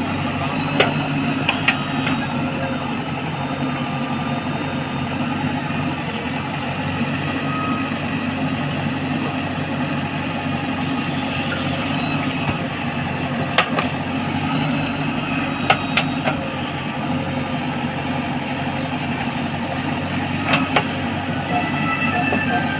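Diesel engine of a JCB 3DX backhoe loader running steadily while it works, with a few sharp knocks scattered through.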